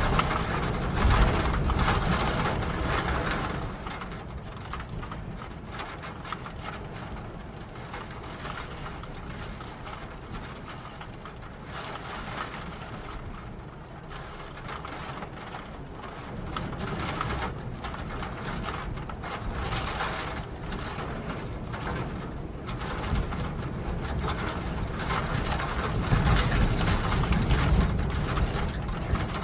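Rain falling, heard as a dense spread of small drop ticks over a low rumble. It is louder for the first few seconds and again near the end.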